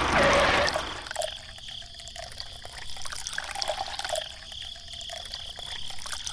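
Water trickling and dripping, with scattered small drips and clicks. A louder rush of noise dies away about a second in.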